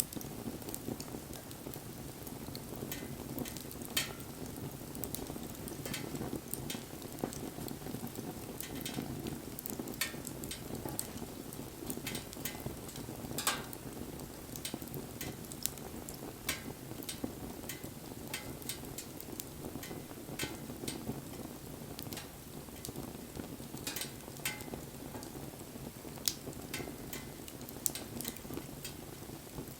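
Wood bonfire crackling: irregular sharp pops and snaps from the burning wood over a steady low rush of the flames.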